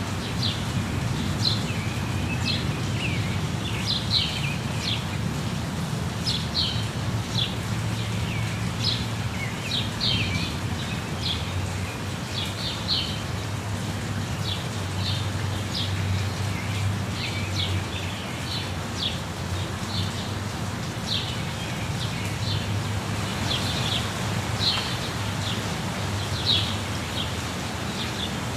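Birds chirping and calling in many short, quick notes, one after another, over a steady rush of falling water from a waterfall.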